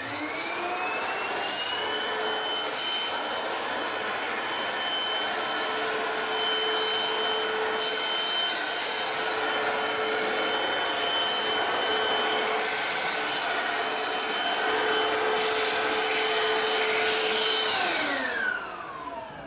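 Hoover CRUISE+ cordless stick vacuum switched on, its motor whine rising over the first two seconds, then running steadily with a high whine over a rush of air while cleaning. It is switched off near the end and winds down with a falling whine.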